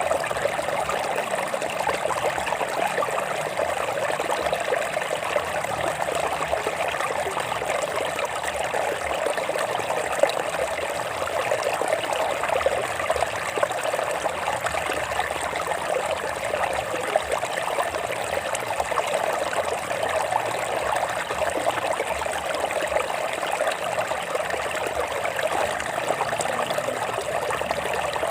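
Water of a stream running over rocks: a steady, even rush with constant fine splashing.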